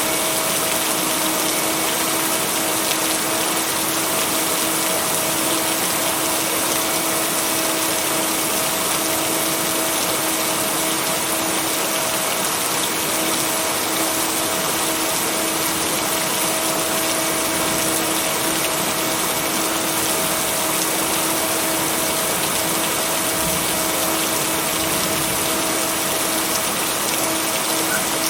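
Steady, heavy rain falling without a break, with two steady low tones held underneath, the binaural beats that the rain track is blended with. No thunder claps or other sudden sounds.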